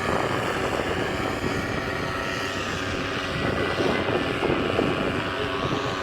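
A motor running steadily under a rushing wind noise.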